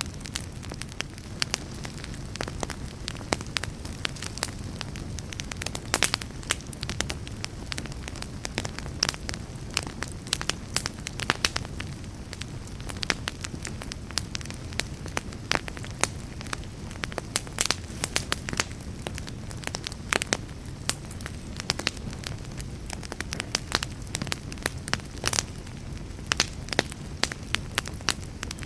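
Campfire burning with a steady low rumble and frequent irregular crackles and pops of burning wood.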